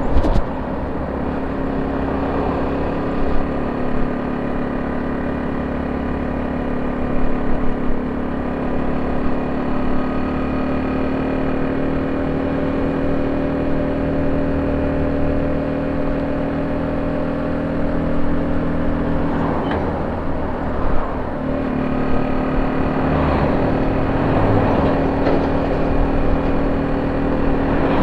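Honda C70 motorcycle's small single-cylinder four-stroke engine running at steady revs through an aftermarket exhaust, with a brief change in pitch about twenty seconds in.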